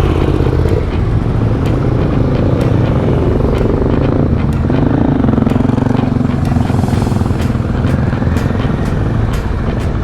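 Adventure motorcycle engine running steadily as the bike rides off, with scattered sharp clicks over it.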